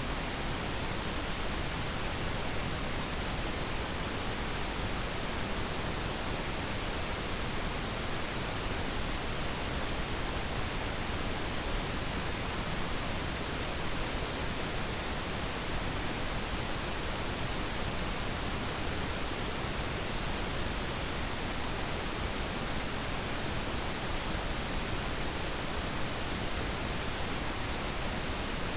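Steady, even pink noise: a continuous full-range hiss with no breaks or changes.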